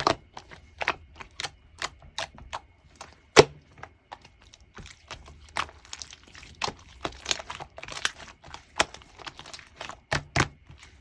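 Orange clear slime being squeezed and poked by hand, giving off irregular sharp clicks and pops, about two or three a second, some much louder than the rest.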